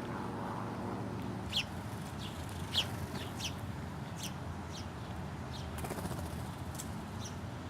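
Wild birds chirping: a dozen or so short, high chirps, each dropping quickly in pitch, scattered irregularly over a steady low background rumble.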